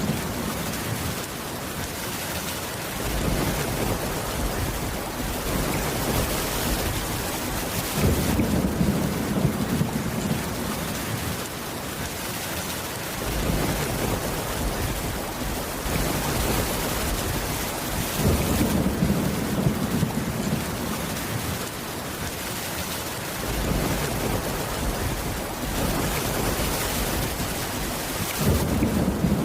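Steady heavy rain, with low rolls of thunder coming in about every five seconds.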